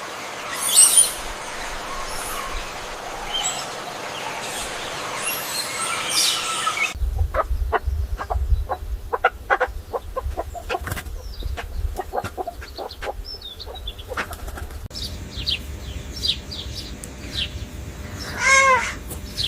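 Birds in three cut-together outdoor clips. First come high chirps over a steady hiss, then a run of short sharp clicks and flutters over a low rumble. Last come scattered bird calls, with one loud, clear call about a second before the end.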